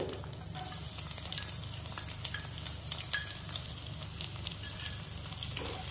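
Chopped garlic sizzling in hot oil with cumin, mustard and carom seeds in a nonstick pan, stirred with a wooden spatula: a steady frying hiss with scattered small clicks, one sharper about three seconds in. This is the tempering (tadka) stage, garlic just added to the hot seeds.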